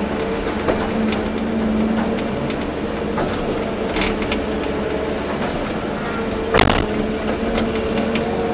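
Volvo EC240B excavator's diesel engine running under load with a steady hydraulic whine, and a few knocks and rattles, the loudest about six and a half seconds in.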